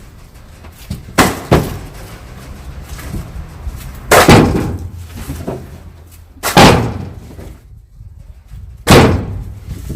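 Heavy wooden thuds as firewood logs are thrown down one at a time, a quick pair about a second in, then single thuds every two to two and a half seconds.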